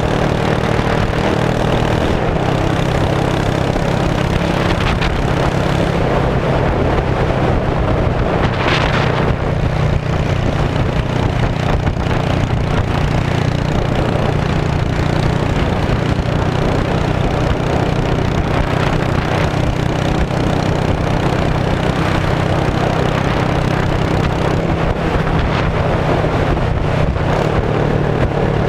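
2002 Yamaha V-Star 650's air-cooled V-twin running steadily through straight-piped exhaust, loud and even throughout, with wind noise on the microphone.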